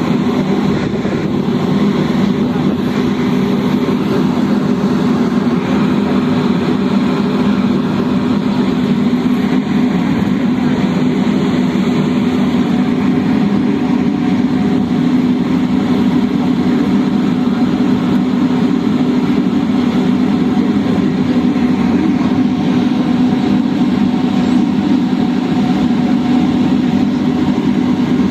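Steady drone of a large engine running without a break, strongest in a low hum, with a hiss of rushing noise above it.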